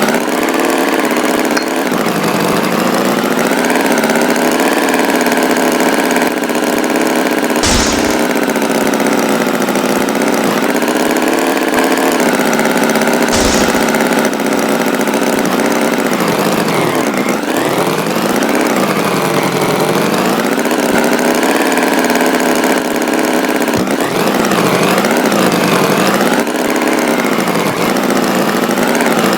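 Tractor engine running steadily, its pitch rising and falling several times as it revs, with two short bursts of noise along the way.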